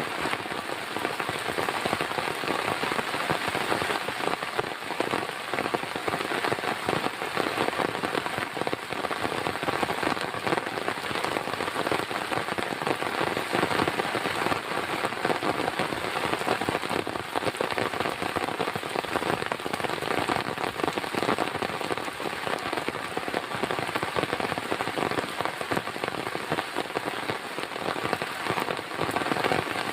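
Heavy rain falling steadily, a dense patter of many drops striking a surface, even and unbroken throughout.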